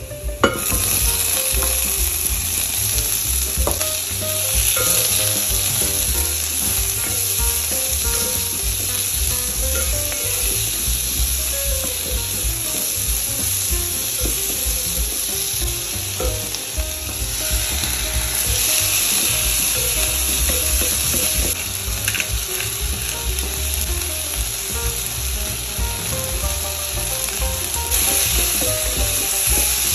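Halved grape tomatoes and minced garlic sizzling in hot olive oil in a pot, stirred and scraped with a wooden spoon. The sizzle jumps up sharply about half a second in, as the tomatoes hit the oil, and stays steady afterwards.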